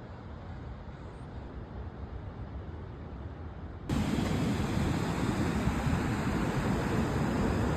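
Steady rushing noise of outdoor wind and surf, which cuts abruptly to a louder stretch about four seconds in.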